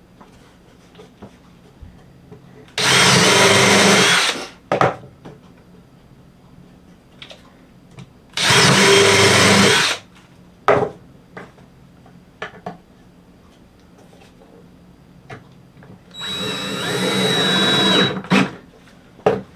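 Power drill driving 2-inch screws into wood, three runs of about a second and a half to two seconds each, the last one building up in level. Light clicks and knocks from handling the pieces come between the runs.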